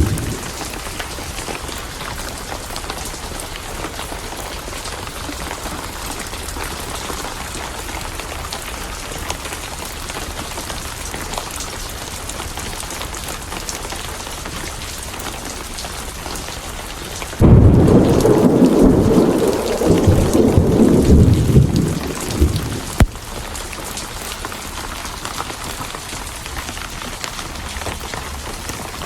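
Steady rain falling, with a sudden loud clap of thunder a little over halfway through that rumbles for about five seconds before dying away.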